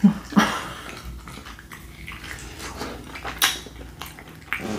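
Biting into and chewing a sauced smoked chicken wing close to the microphone: wet mouth sounds with a few sharp clicks, the loudest just after the bite and again about three and a half seconds in.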